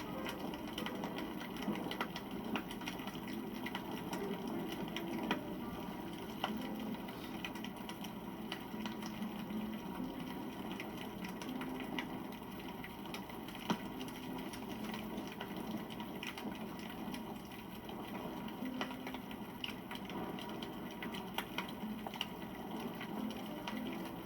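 Wood fire burning with a steady crackle and many scattered sharp pops, one louder pop about fourteen seconds in.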